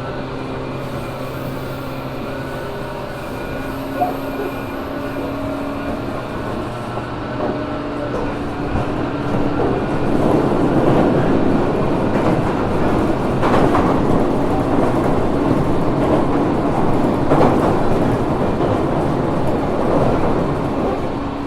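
JR Kyushu 415 series 1500-subseries electric multiple-unit motor car running on the line, heard from inside: a steady hum over rail rumble, growing louder and rougher about ten seconds in and easing slightly near the end.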